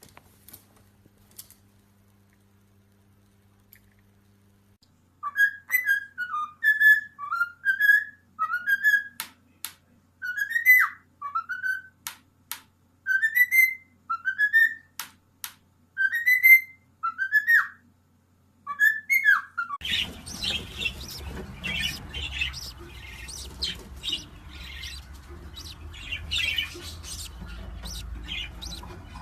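A pet bird whistling a long string of short whistled notes, each rising or arching in pitch, with brief gaps between them. About twenty seconds in the sound changes suddenly to bird chirping over a noisier background.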